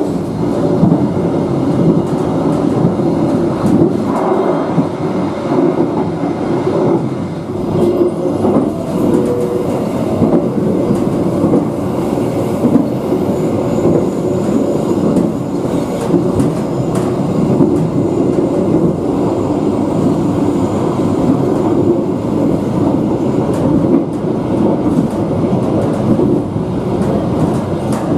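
Passenger train running at speed: a steady rumble of wheels on rails with clicking from the track, heard from inside the rear end of the last coach.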